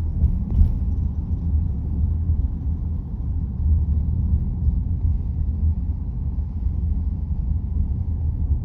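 Steady low rumble of a car driving along a city road, heard from inside the cabin: engine and tyre noise.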